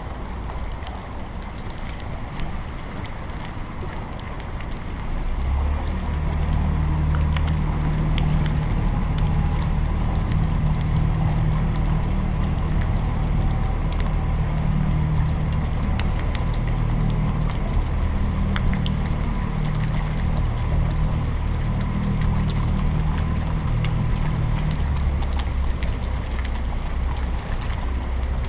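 Boat engine running steadily at low speed, its low hum coming in about five seconds in over wind noise on the microphone.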